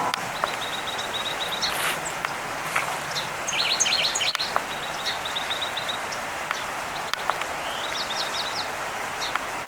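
Small songbirds calling: a fast trill of short, high notes repeated several times, with a brief burst of jumbled chirps about three and a half seconds in, over steady outdoor background noise.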